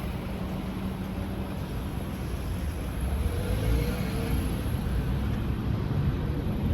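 Low, steady rumble of road traffic, growing slightly louder about halfway through as a vehicle draws nearer.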